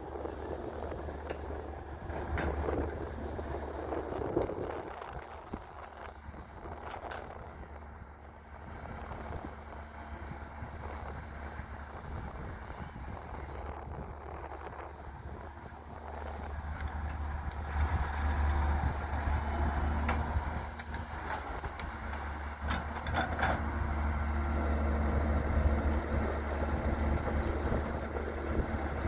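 Diesel engine of a Daewoo Solar 170W-3 wheeled excavator running steadily while it loads mud, with a few knocks. The engine grows louder about halfway through.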